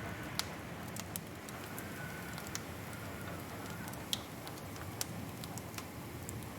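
Wood fire crackling in a fireplace: irregular sharp pops and snaps, the loudest about four seconds in, over a steady low rush of the flames.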